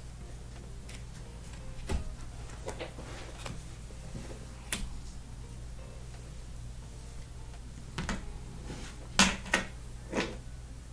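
Scattered light taps and clicks of trading cards being handled and set down on a table, the three loudest near the end, over a steady low electrical hum.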